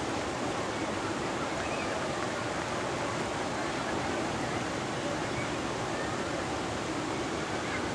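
Ocean waves breaking on a shore: a steady, continuous wash of surf with no single crash standing out.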